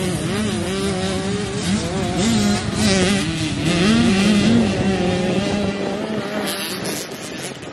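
Motocross bike engines racing on the track, their pitch rising and falling again and again as the riders open and close the throttle.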